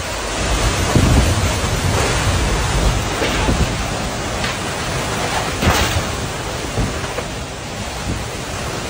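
Tornado winds and rain passing close by: a steady rushing noise over a low rumble, with louder gusts about a second in and again near the middle.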